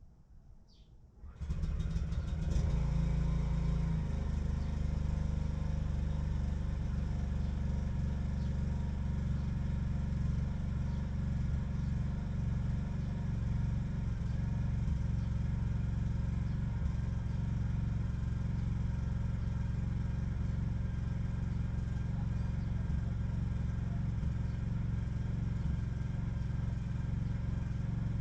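An engine starts up about a second in, runs a little higher for a couple of seconds, then settles into a steady idle.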